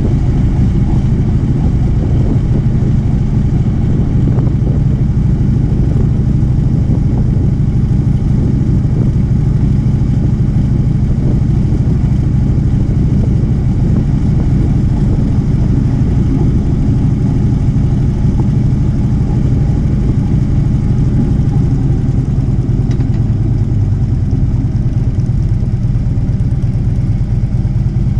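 Motorcycle engine running at a steady, unchanging note.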